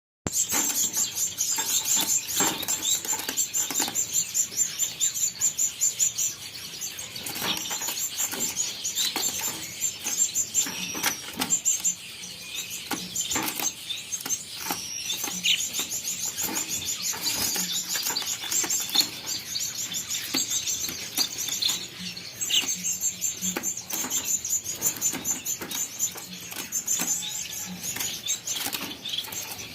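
A group of caged cut-throat finches chirping in rapid runs of high notes, with frequent wing flutters and short clicks from the birds moving about.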